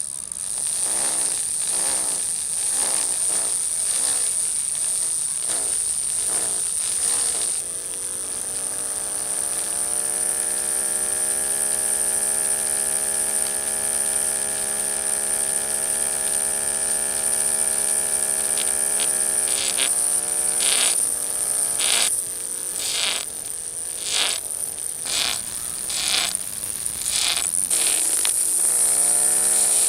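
Small electric motor of a homemade circular sander running with a high buzzing whine, its pitch wavering at first and holding steady for a stretch in the middle. Short repeated scrapes or pulses come in toward the end.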